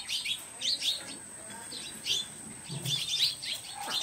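Small birds chirping in many short, quick, downward-sliding calls, in loose clusters throughout.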